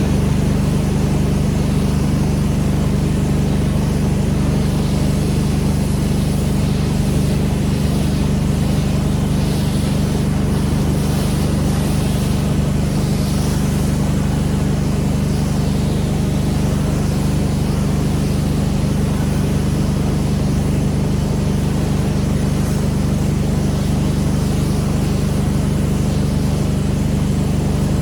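Pressure washer engine running steadily, with a hiss of water spray over it that swells and fades a little partway through.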